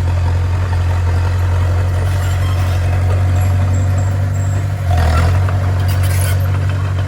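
Bulldozer's heavy diesel engine running steadily with a deep drone, with a brief clatter about five seconds in.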